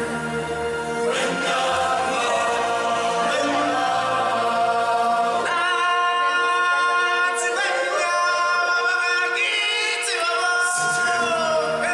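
Group of voices singing held, chant-like chords in a choir, with little or no instrumental backing; the pitch shifts between chords every few seconds.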